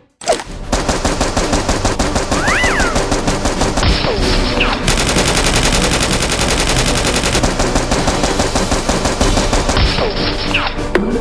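Sustained rapid automatic gunfire, many shots a second in a dense, continuous rattle, with a few brief whistling pitch glides on top.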